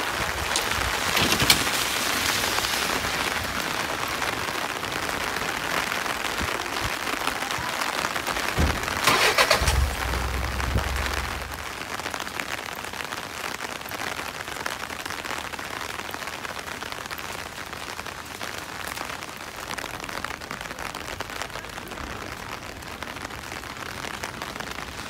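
Steady rain falling on wet pavement and street surfaces, a dense even hiss. About nine seconds in there is a brief louder low rumble with a few sharp ticks, after which the rain sounds a little quieter.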